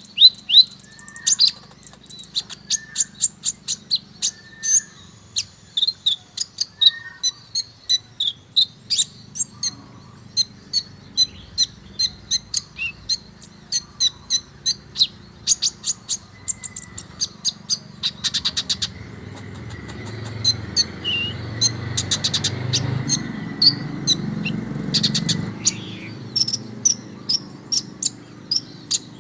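Kolibri ninja (a sunbird) singing a fast run of high, sharp chirps and ticking trills, with lower slurred notes mixed in during the first few seconds. A low rumble and a faint steady buzz join in during the second half.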